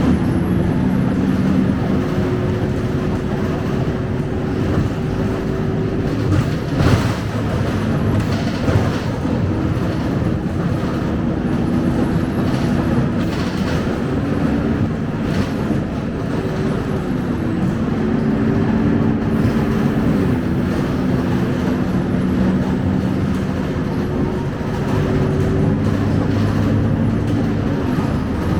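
Scania K270UB city bus's diesel engine and road noise, heard from inside the cabin during a ride. The engine note shifts up and down in pitch as the bus changes speed, with occasional short rattles and knocks from the body.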